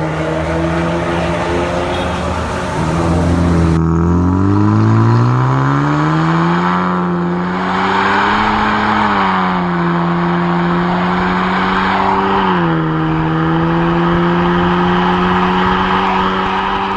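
2016 Honda Civic RS engine breathing through an aftermarket air intake and exhaust, revving: the note climbs steadily for about five seconds, then holds high, easing down a step about two-thirds of the way through.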